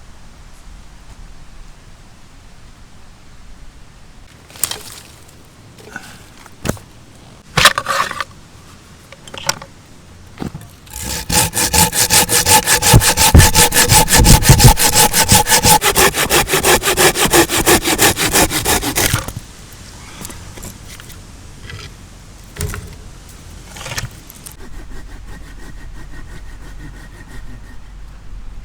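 Hand saw cutting wood in fast, even strokes for about eight seconds, stopping abruptly. Before it come a few separate knocks.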